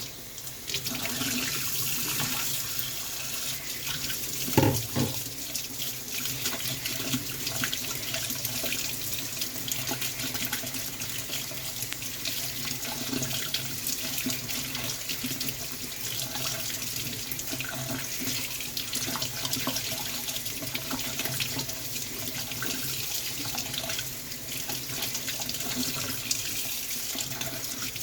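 Tap water running steadily into a sink, with a single knock about four and a half seconds in.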